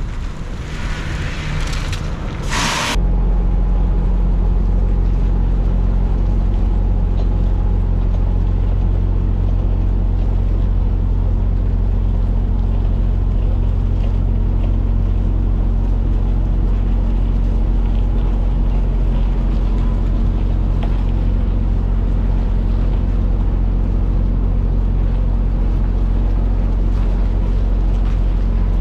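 Rain-like hiss for about three seconds, then a sudden change to a semi truck's diesel engine droning steadily at cruise, heard as a loud, even low hum.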